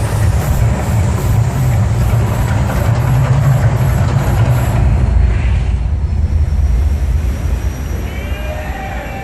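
Mirage volcano attraction: a loud, steady low rumble that eases a little in the last couple of seconds, when a few voices are heard.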